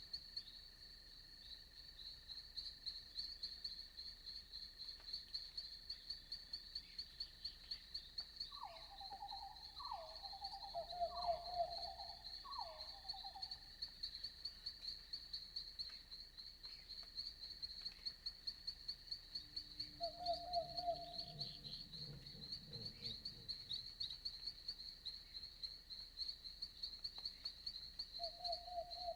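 Night insects, crickets, chirping in a steady, rapidly pulsing high chorus over a fainter steady high drone. Over it an animal gives four short falling calls from about nine to thirteen seconds in, and brief mid-pitched calls sound around twenty seconds in and near the end.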